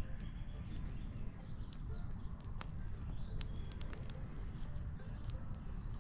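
Outdoor ambience: a steady low rumble with scattered small clicks and a few short, high bird chirps.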